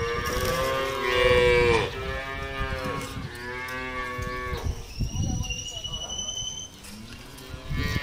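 Cattle mooing: three drawn-out calls one after another, the first the longest and loudest, dropping in pitch as it ends. A thin, high, slightly rising whistle follows for about two seconds.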